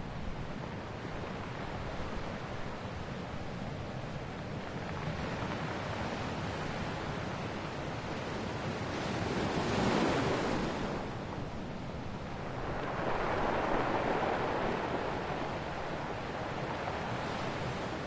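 Ocean waves breaking on a shore, with a steady wash of surf between them. Two waves swell and fade, one peaking about ten seconds in and another a few seconds later.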